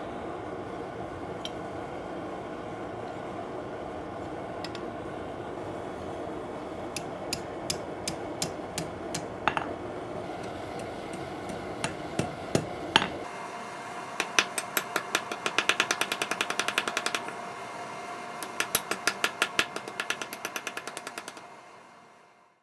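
A steady rushing noise, then a blacksmith's hammer striking 1/2-inch round mild steel on an anvil. Single blows come every half second or so from about seven seconds in, then fast runs of many quick, light strikes from about fourteen seconds, stopping shortly before the end.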